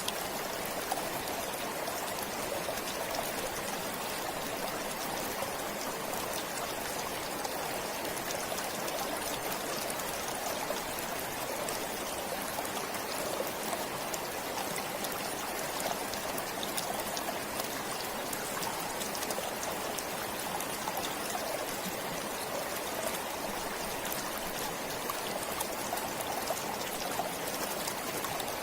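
Forest stream flowing steadily, an even rush of water with many small splashes and trickles.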